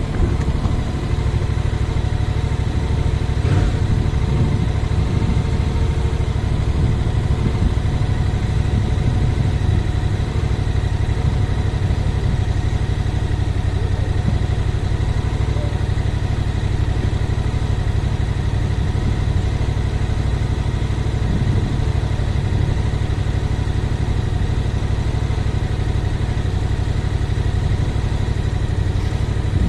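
Yamaha MT-07's 689 cc parallel-twin engine running at a steady, unchanging speed over a heavy low rumble.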